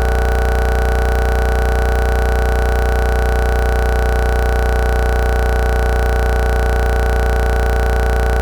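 A loud, perfectly steady hum made of a few held tones, deep at the bottom, with no change or break at all.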